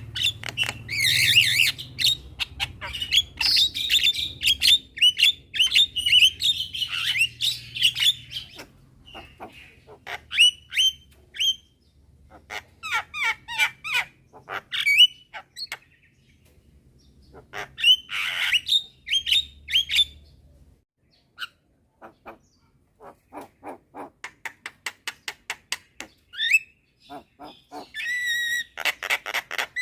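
Several black-winged mynas calling: a dense run of loud whistles and harsh squawks for the first eight seconds, then scattered calls and quick series of ticks. There is one harsh rasp in the middle and a loud call near the end.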